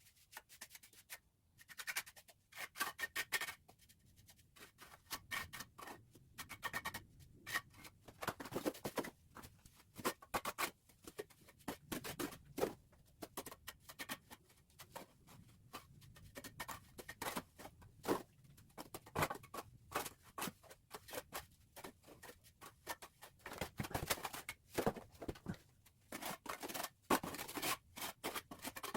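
Steel trowel scraping and spreading cement mortar: a rapid, irregular run of short scrapes and taps, some louder strokes standing out.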